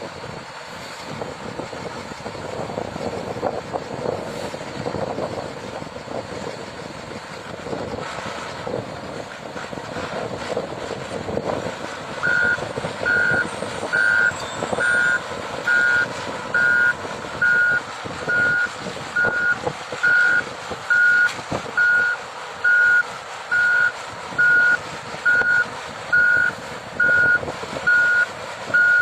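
Backup alarm on a heavy truck or construction machine beeping steadily, about once a second, starting about twelve seconds in. The machine's engine runs throughout.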